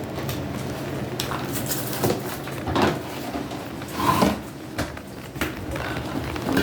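Household objects clattering and knocking irregularly as they are handled and moved about, over a steady low hum.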